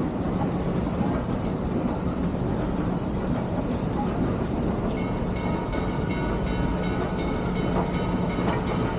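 Steam excursion train rolling along the rails with a steady, dense rumble. About halfway through, thin high squealing tones join in.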